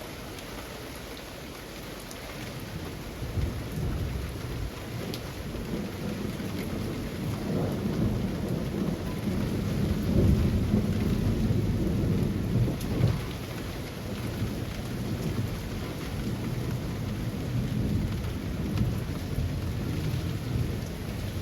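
Steady summer rain falling through tree foliage, with a long low rumble of thunder that builds a few seconds in, is loudest about halfway through, then eases off.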